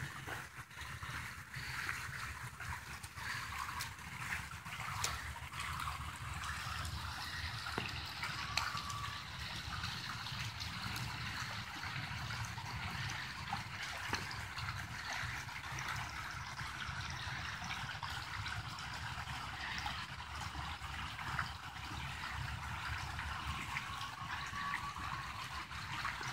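Floodwater from storm runoff running steadily through a yard, a continuous trickling rush of moving water.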